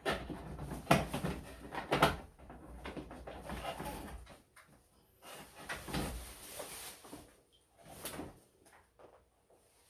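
Irregular knocks and clatter of things being handled, with louder knocks about one and two seconds in and again near the end, and rustling noise between.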